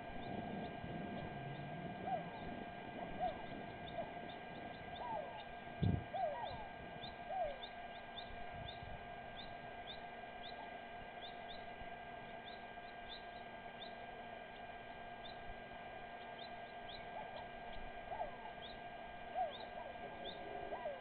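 Birds chirping in short scattered calls over a steady electrical hum, with a single thump about six seconds in.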